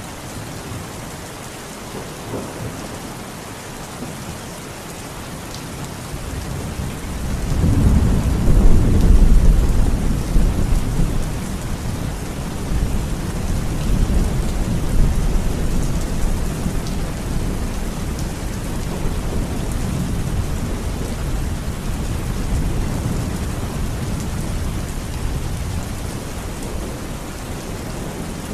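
Steady rain falling, with a roll of thunder rising about six seconds in, loudest a few seconds later, then rumbling away slowly under the rain.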